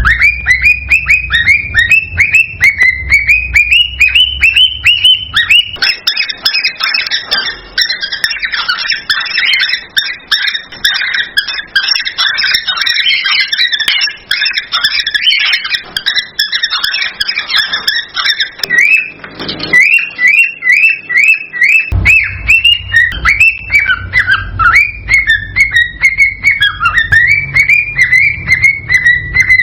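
Male cockatiel's excited mating song: rapid, repeated chirping whistles that go on without a break, growing denser and busier through the middle.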